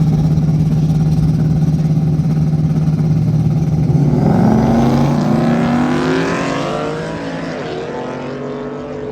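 A car engine held loud at steady revs, then about four seconds in it accelerates away, its pitch climbing in several rising sweeps as it fades.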